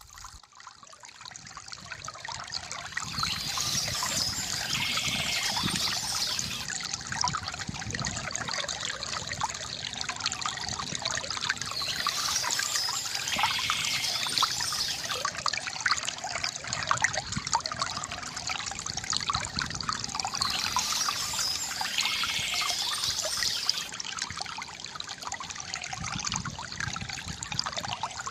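Stream water trickling and pouring, a steady rushing that swells up from near silence over the first few seconds. A brighter high chirping patch, likely birds singing, returns about every nine seconds.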